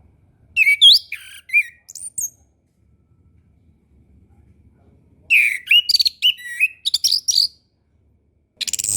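Anis kembang (chestnut-capped thrush) singing: two bursts of quick, varied whistled notes, about a second in and again around five seconds in. Near the end a loud, steady buzzy sound starts.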